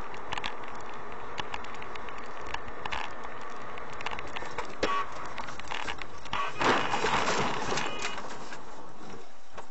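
Car on the road heard through a dashcam: steady road and engine noise with scattered clicks and rattles, and a louder rushing swell about seven seconds in.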